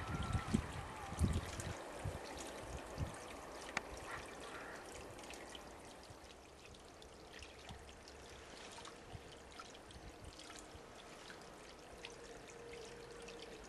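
Low wheel thuds from a departing train fade out over the first few seconds, leaving a faint, steady rushing hiss. Near the end a faint steady hum comes in as an EF81 electric locomotive hauling a container freight train approaches.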